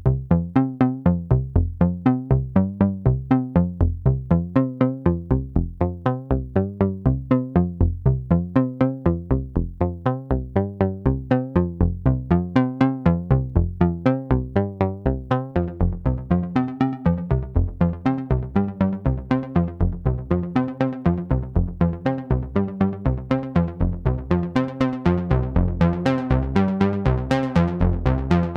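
Roland SH-09 analog monosynth playing a sequenced bass line: a steady stream of short, plucky low notes at about four a second, stepping through a repeating pattern of pitches. The filter opens up in the second half, so the notes turn brighter and buzzier toward the end.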